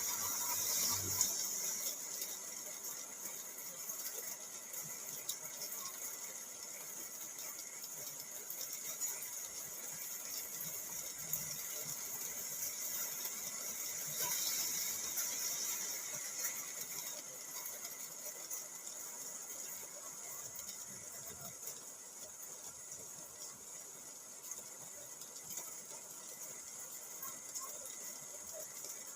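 Rain falling on a car, heard from inside the cabin: a steady hiss that swells a little around the middle and eases off toward the end.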